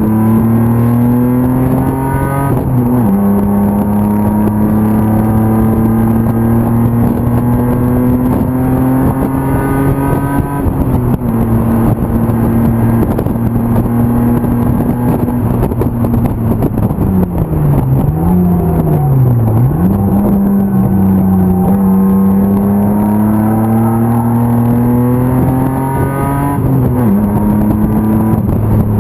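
BMW E36 325 race car's M50 2.5-litre inline-six running hard, its note climbing steadily with sharp drops at upshifts about 2.5 s in, around 10 s and near the end. In the middle the revs fall and swing back up twice.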